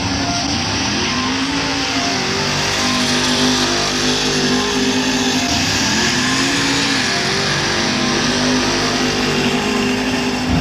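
Diesel truck engine revving hard and running under load. Its pitch climbs about a second in and again about halfway through, holding high in between.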